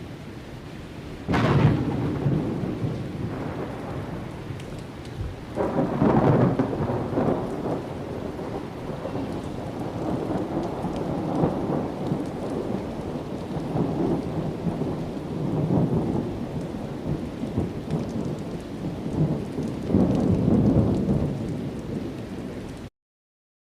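Thunder: a sharp crack about a second in, then repeated low rolls of rumbling that swell and fade, over steady rain. The sound cuts off suddenly near the end.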